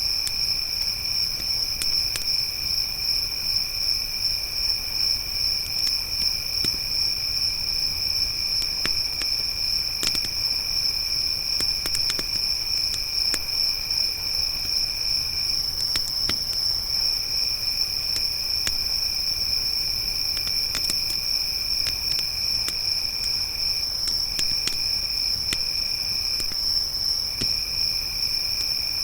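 Crickets trilling steadily in two pitches, a loud high one and a softer lower one that pauses briefly a few times, over scattered small crackles of a wood campfire.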